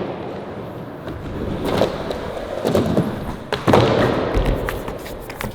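Skateboard rolling on flat ground, with several sharp clacks and thuds as the board hits the ground; the loudest comes a little under four seconds in.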